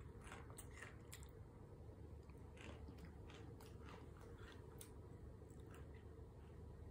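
Faint, irregular crunching of someone chewing a crunchy snack close to the microphone, over a low room hum.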